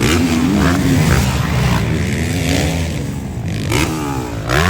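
Motocross dirt bike engines revving up and down, with a sharper rising rev near the end.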